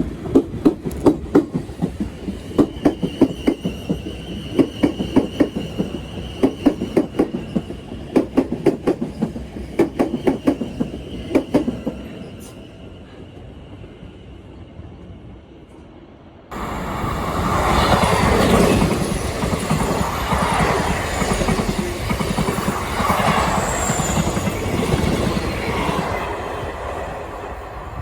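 Passing train's wheels clicking rapidly over rail joints, with a thin high wheel squeal for a few seconds, then dying down. About sixteen seconds in, this gives way abruptly to the louder, steady rush of a train running past, fading near the end.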